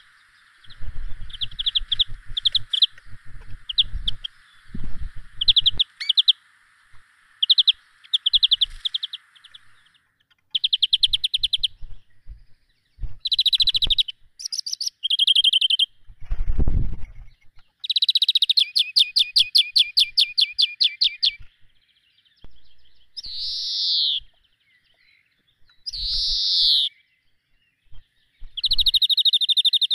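Birds chirping and trilling: repeated short chirps, rapid trills and down-slurred calls. A steady hiss runs under them for the first third, and there is a low thump about halfway through.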